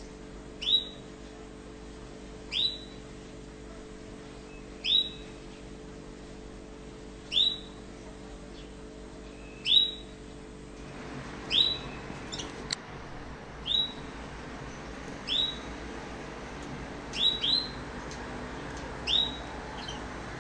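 Male mosaic canaries giving short, single rising call notes, one every two seconds or so, with two in quick succession near the end; no song phrases.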